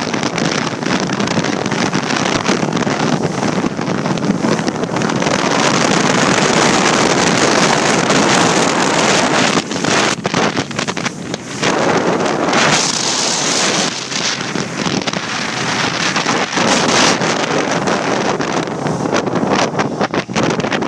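Wind buffeting the microphone, a loud, steady rushing noise with several brief dips in the second half.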